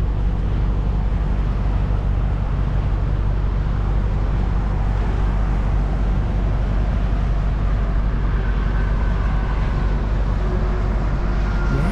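Steady vehicle noise: a low, even engine drone with road noise under it.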